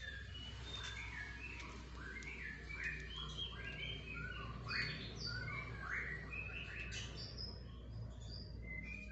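Small birds chirping, with many quick high notes overlapping, over a steady low hum.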